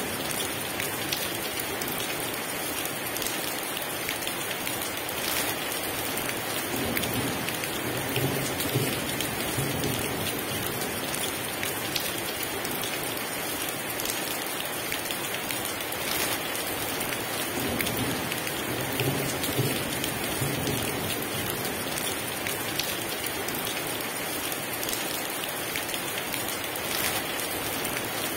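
Heavy rain pouring steadily, with soft low rumbles of thunder coming and going.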